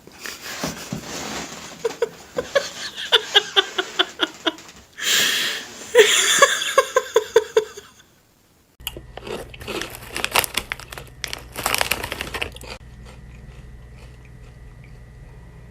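A pet chewing crunchy food in rapid, crisp crunches, with a break near the middle, more crunching after it, and a quiet steady hum in the last few seconds.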